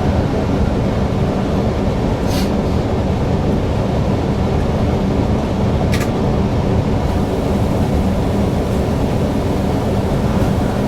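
Newag Impuls EN63 electric multiple unit running along the line, heard from inside the driver's cab as a steady, loud rumble. Two brief sharp clicks cut through it, about two and six seconds in.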